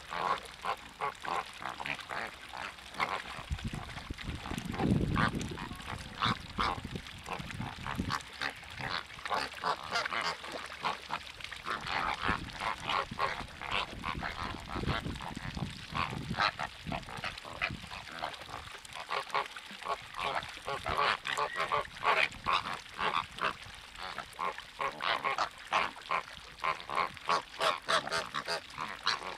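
A flock of birds calling continuously, many short calls overlapping one another, with a low rumble about five seconds in.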